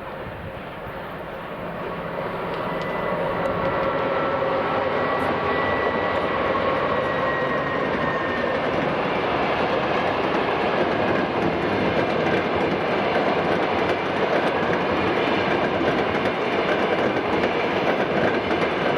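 Passenger train rolling past on the rails, growing louder over the first few seconds and then running steadily as it goes by.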